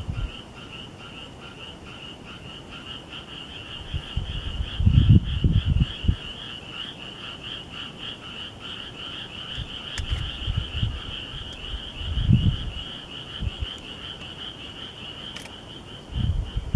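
A calling animal's steady, rapidly pulsed high-pitched trill, with a few loud low rumbles on the microphone.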